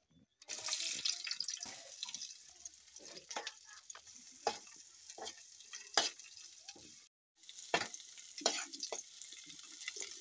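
Sliced onions and green chillies sizzling in hot oil in a pan, the sizzle starting about half a second in. A wooden spatula stirs them with frequent scrapes and knocks against the pan. The sound cuts out briefly about seven seconds in.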